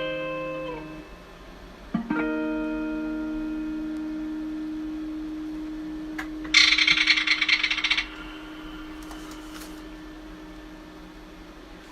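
Guitar ringing out: a run of plucked notes fades, then a chord is struck about two seconds in and left to ring, slowly fading. A loud, fast-fluttering rattle lasts about a second and a half in the middle.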